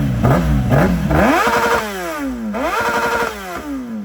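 Motorcycle engine revved while standing: a few quick blips of the throttle, then two longer revs that climb fast and die away slowly.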